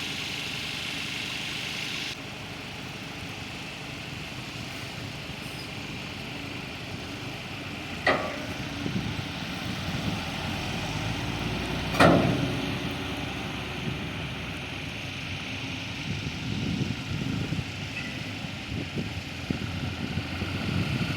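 Heavy machinery's engine running steadily, with two sharp knocks about eight and twelve seconds in, the second one louder.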